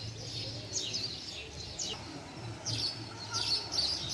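Small birds chirping in quick runs of short, high notes, over a low steady hum.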